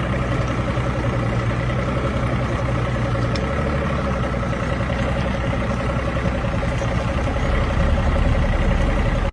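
Cummins diesel truck engine running steadily under load. Its deep low note changes about three seconds in, and it gets a little louder near the end before cutting off suddenly.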